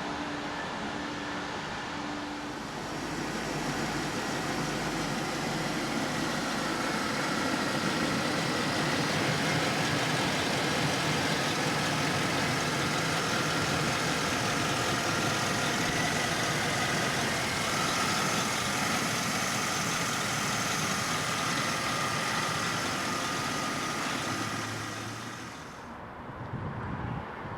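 Engine of a 2014 Chevrolet 4500 cutaway truck running steadily, with a broad hiss and a faint steady whine over it. The sound grows a little louder a couple of seconds in and drops away near the end.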